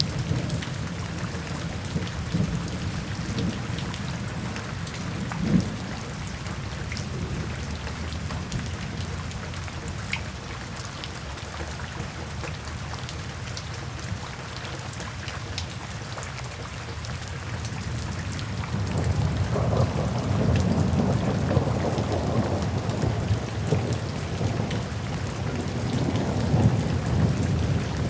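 Steady rain falling, with a low rumble of thunder swelling up about two-thirds of the way in and carrying on.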